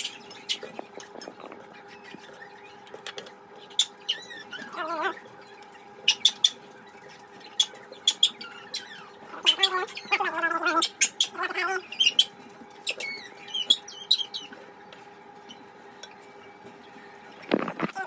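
Dogs whining and whimpering in high, wavering squeals, a few at a time, mixed with sharp clicks and knocks of utensils against bowls. A faint steady hum sits underneath.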